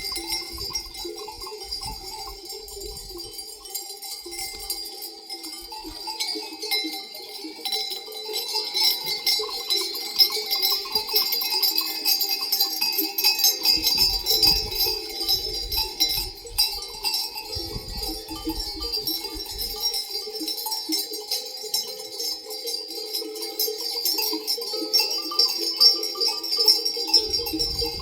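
Many metal bells on a grazing flock of sheep and goats clanking and ringing together without pause, with the odd faint bleat.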